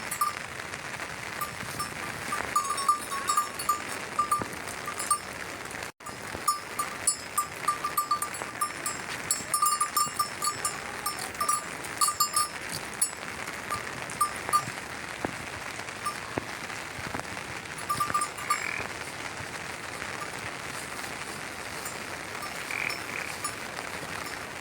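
Small bells on a flock of sheep and goats clinking irregularly as the animals move, over a steady hiss. There are a couple of short animal calls near the end.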